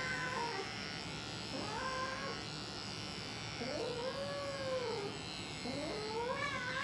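A grey cat giving three drawn-out, arching meows, a bird-like warbling protest at being restrained for clipping.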